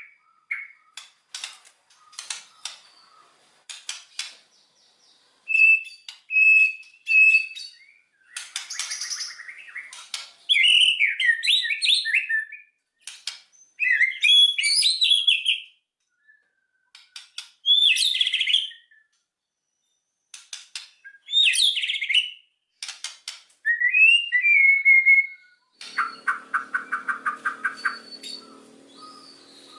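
White-rumped shama (murai batu) singing loud, varied phrases of whistled glides and rapid clicking notes, broken by short pauses, with a rapid harsh rattle near the end.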